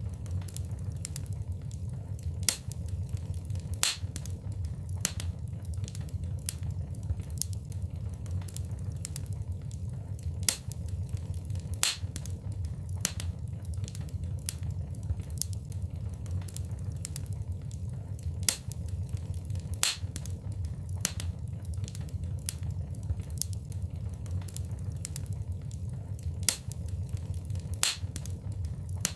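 Wood fire burning in a fireplace: a steady low rumble of flames with sharp crackles and pops at irregular intervals, several a second.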